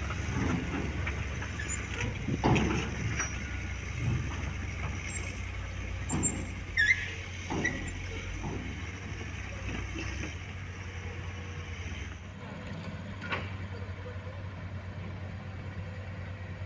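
Heavy vehicle's diesel engine running steadily, with scattered knocks and a brief high squeal about seven seconds in; the engine sound drops away about twelve seconds in.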